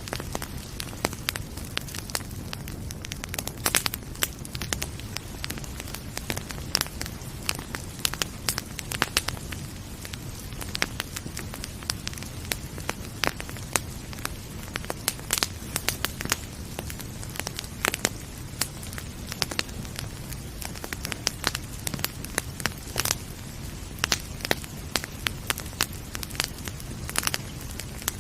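Wood fire in a fireplace crackling, with frequent irregular sharp pops over a low steady rumble of the flames.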